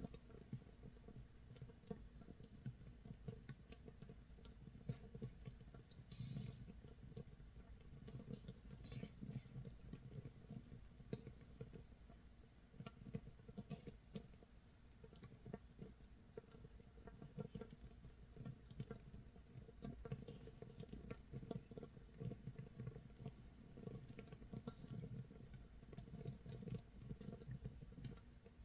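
Makgeolli starter mash (mitsul), 24 hours into fermentation, bubbling in an earthenware crock: a faint, dense crackle of tiny popping bubbles, like light rain or grilling nurungji.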